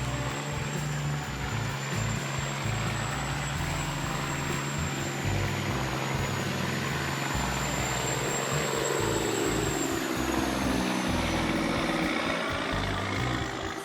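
Heavy-duty wood chipper running steadily while reducing logs to chips, with a high whine whose pitch sags about two-thirds of the way through.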